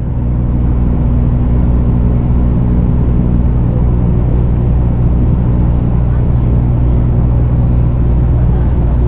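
Steady low drone of an engine running at constant speed, with a deep, even hum.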